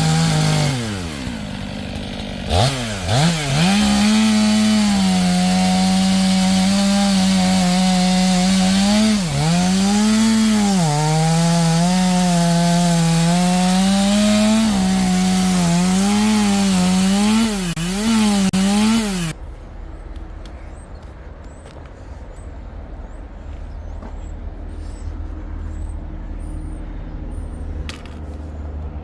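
Two-stroke chainsaw running at high revs while cutting into a Western red cedar log. It drops toward idle just after the start, revs back up, and its pitch sags several times as the chain bites. It stops abruptly about two-thirds of the way through, leaving a quiet background with faint clicks.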